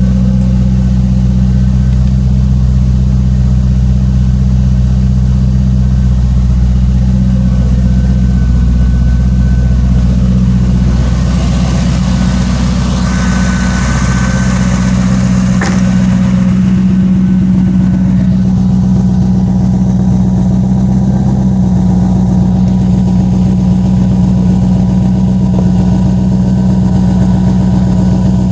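Supercharged Chevrolet Corvette C5 V8, custom-built by Lingenfelter, idling steadily on a cold start after sitting for days.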